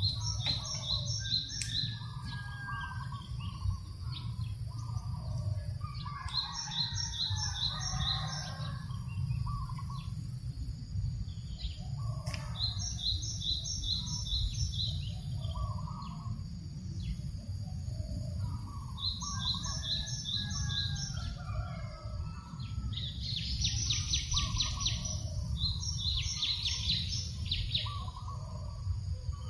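Birds singing over a steady low breeze rumble. One bird repeats a short phrase of rapid high notes about every six seconds, other birds call more softly in a lower register, and a fast high trill joins near the end.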